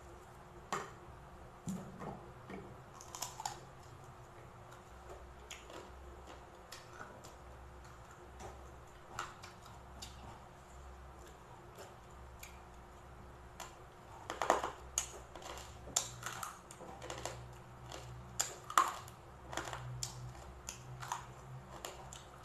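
Close-up mouth sounds of chewing crispy fried pork belly: irregular sharp crunching clicks, sparse at first and coming thick and fast through the second half.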